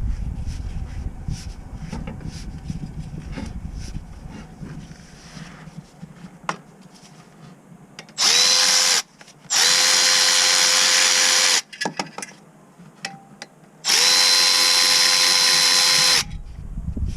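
Cordless power tool spinning a fastener in three steady bursts, the second and third about two seconds long, with light tool clicks and handling noise in between.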